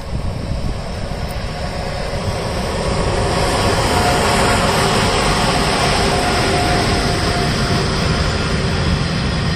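HXD2B electric locomotive hauling a freight train of C70 open wagons passing close by: the rumble grows as the locomotive draws near and comes alongside about four seconds in, with a steady whine while it goes by. Then the wagons roll past with a steady noise of wheels on the rails.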